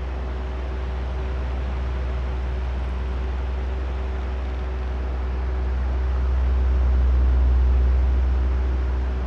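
Oscillating electric fan running: a steady motor hum with a faint tone and an even rush of air. The sound swells as the head turns past, about six to eight seconds in, then eases off.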